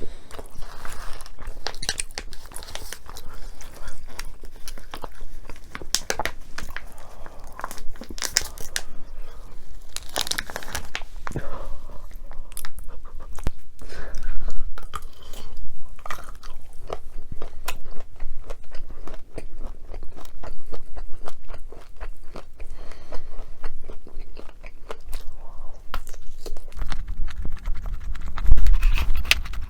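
Close-miked eating sounds: a person biting and chewing food, with many short crunches and clicks. There is a low bump with a rumble near the end.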